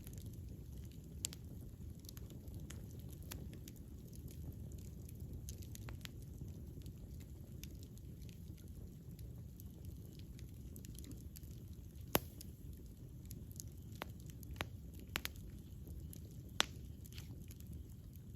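Wood fire burning with a low steady rumble and irregular crackling, sharp pops scattered through it and a few louder snaps about twelve seconds in and again near the end.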